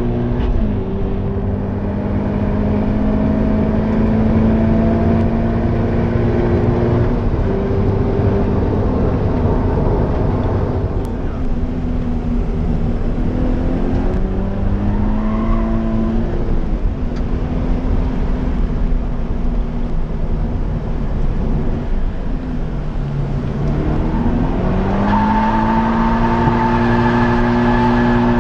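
Stock Toyota GT86's FA20 2.0-litre flat-four engine heard from inside the cabin while being driven hard on track. The note holds high and steady for long stretches, drops in pitch under braking and downshifts about midway and again near the end, then climbs back up under acceleration.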